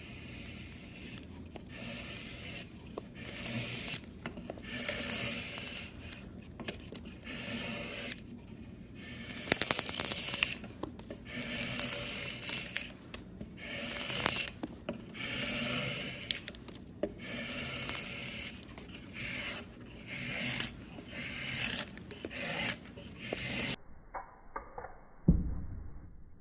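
Wood being scraped and shaved by hand with a carving blade or rasp, in repeated strokes of about a second each. Near the end the scraping stops and a dull thump follows.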